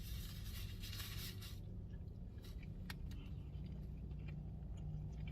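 Rustling of a food wrapper for about a second and a half, then a few faint clicks of eating, over a steady low hum.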